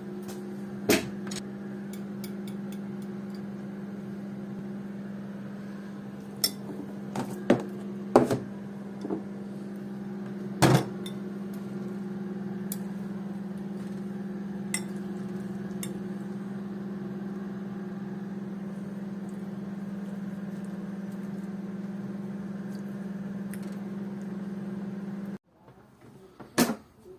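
Microwave oven running with a steady hum, and sharp pops from the eggs cooking inside, clustered a few seconds in. The hum cuts off suddenly near the end, followed by a couple of clicks and knocks.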